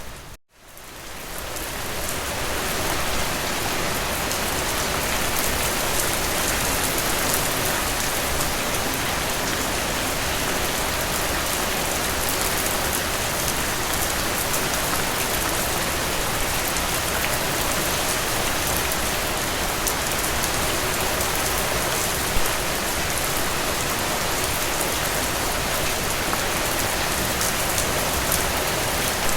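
Steady rain falling, a dense even hiss of drops. About half a second in the sound drops out almost to silence and fades back up over about two seconds, and one brief louder tap stands out about two-thirds of the way through.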